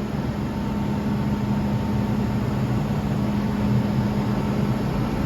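Steady hum of an MTR M-train: even noise with a constant low tone and a faint higher tone, no rail clicks or changes in pitch.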